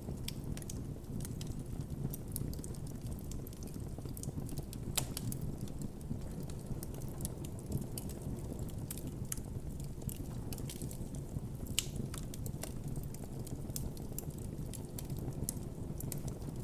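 Campfire burning with a steady low rumble of flames and frequent irregular crackles, and a few louder sharp pops along the way.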